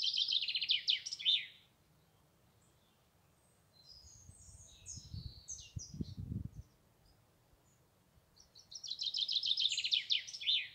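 A songbird singing two fast trilled phrases, each about two seconds long and falling in pitch, one at the start and one near the end, with a few scattered chirps between them. A brief low rumble about five seconds in.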